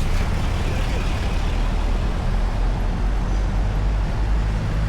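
A motor vehicle's engine running steadily close by, a low even hum.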